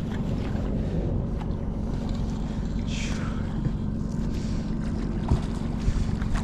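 A steady low rumble, with a brief higher sound about three seconds in.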